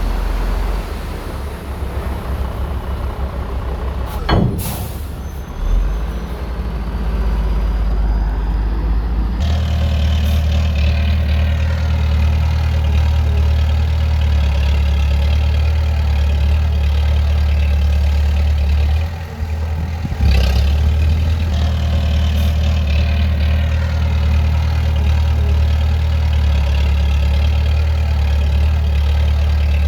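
Heavy diesel earthmoving machine running. Its engine steps up to a louder, fuller note about nine seconds in, as if put under load. A short sharp burst comes about four seconds in, and the engine dips briefly near twenty seconds before picking up again.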